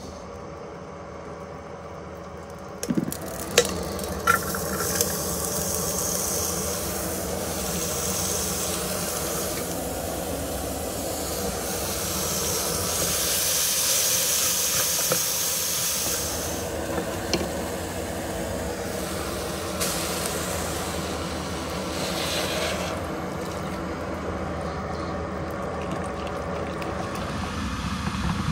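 Rice and chopped vegetables frying in sesame oil in a pot on a small gas canister stove, sizzling while they are stirred with a wooden spoon. The sizzle starts about three seconds in with a few sharp knocks of the pot and utensils, and a steady burner hum runs underneath.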